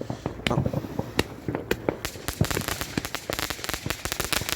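Firework going off with a rapid series of sharp cracks and pops, scattered at first and then coming thick and fast from about two seconds in.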